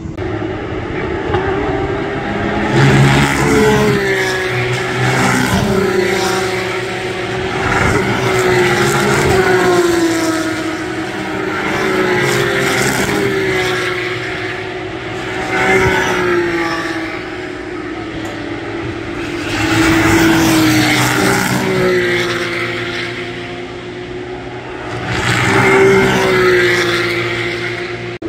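Porsche race cars' engines running hard past the track, one car after another, the engine pitch climbing and dropping over and over through gear changes. The sound swells loudest about three seconds in, around twenty seconds and near the end.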